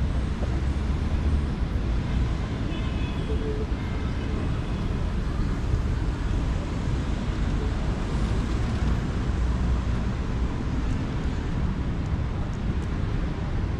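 Steady city street traffic: a continuous low rumble of passing vehicles, with a faint high tone for a couple of seconds about three seconds in.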